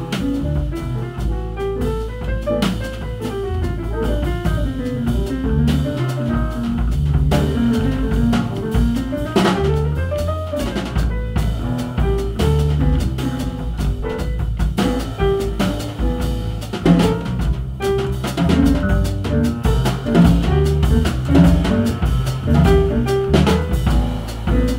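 Jazz piano trio playing live: piano, double bass and drum kit, with runs of notes sweeping up and down over the bass line and busy drumming.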